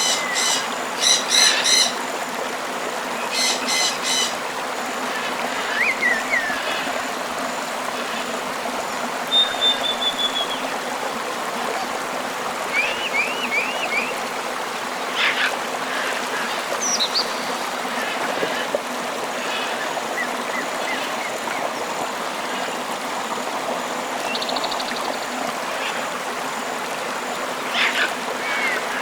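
Steady rush of a flowing river, with birds calling over it: harsh, squawking calls in the first few seconds, then scattered chirps, a short trill, looping whistles and more calls.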